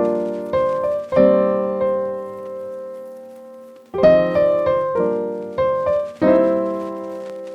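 Background music: a piano playing slow, sustained chords that ring out and fade between strikes.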